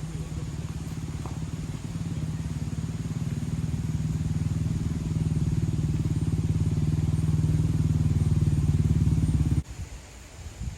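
An engine running steadily, growing louder, then stopping abruptly about nine and a half seconds in.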